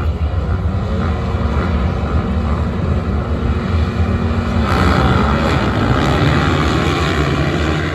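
A pack of motocross bikes revving together at a race start, growing much louder and harsher about five seconds in.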